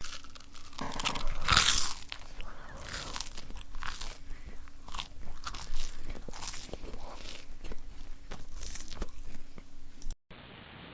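Chewing crunchy food, a fast irregular run of crunches and bites. It breaks off near the end and a duller recording with no treble takes over.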